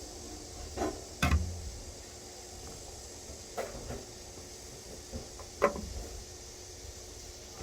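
A few short knocks and clacks, loudest a little over a second in and again near six seconds, over a steady background hiss.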